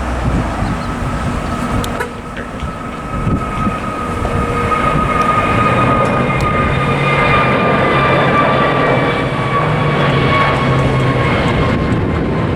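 Airliner jet engines at takeoff power: a steady roar with a high whine that slowly falls in pitch, growing louder a few seconds in and then holding.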